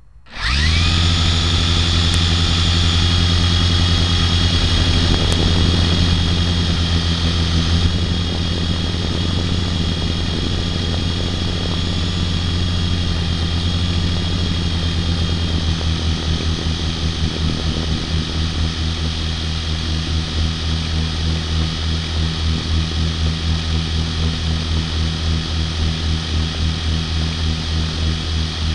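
Remote-control toy helicopter's electric motor and rotor spinning up suddenly and running steadily: a low buzzing hum with a high whine over it. From about halfway through, the sound takes on a fast, even pulsing.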